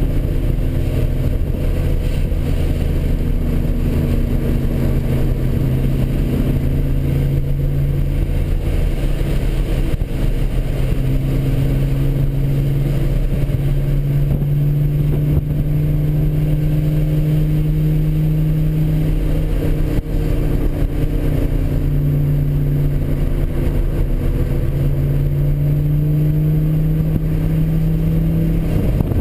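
Nissan 300ZX Z32's twin-turbo 3.0 L V6 heard from inside the cabin, running hard at lapping speed. Its steady note drifts slowly up and down in pitch, with brief dips about ten and twenty seconds in.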